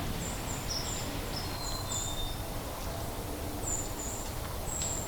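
Small birds calling: short, high, thin chirps repeated at irregular intervals, with a few slightly longer, lower notes among them, over a steady outdoor background hiss.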